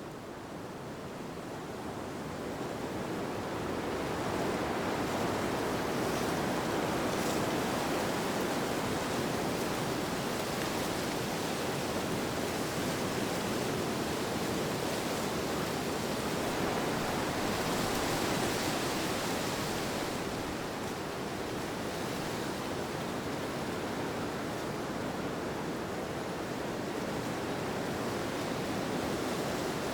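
Steady rushing wind, swelling over the first few seconds, peaking again a little before the middle, then easing slightly.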